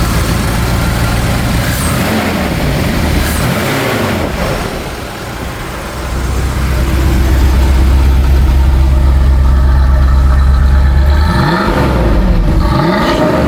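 1982 Corvette's 350 Cross-Fire Injection V8 running, blipped twice about two to four seconds in and twice again near the end, with a louder steady stretch in between.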